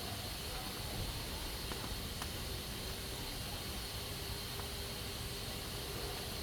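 Pressure cooker hissing steadily as steam escapes from its valve, with a few faint clicks.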